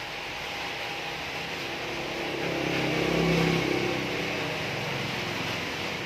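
A motor's low hum swells about two seconds in, is loudest around three and a half seconds, then eases off, over a steady background hiss.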